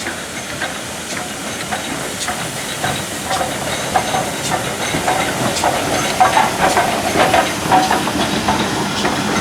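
Steam locomotive hissing steam as a train moves through the station, with scattered clanks and clicks from the wheels and stock. Short squeals come in around the middle.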